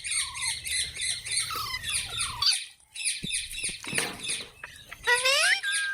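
Pet parrots squawking in a rapid run of short, high, repeated calls, about six a second. The calls break off briefly just before the middle, then return scattered, and a louder call with a rising, gliding tone comes near the end.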